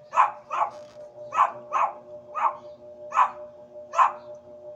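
A dog barking repeatedly, about seven barks spaced well under a second apart, over a steady low hum.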